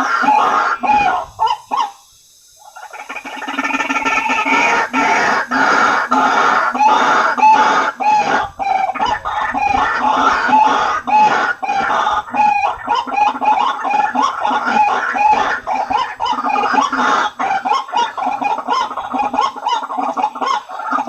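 White-breasted waterhen calling: a fast, dense run of repeated notes that drops away briefly about two seconds in, then carries on.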